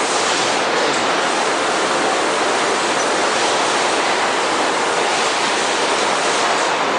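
Steady, loud din of metalworking machinery: a milling machine cutting the inside bevel on the jaws of cutter pliers, a continuous rushing noise with no distinct beat.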